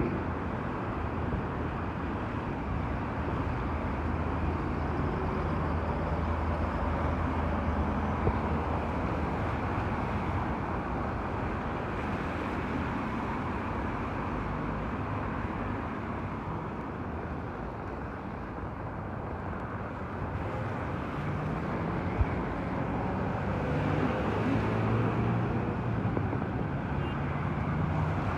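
Steady motor-vehicle and road noise in heavy rain: a low engine hum under a continuous hiss of tyres on wet road, growing a little louder near the end.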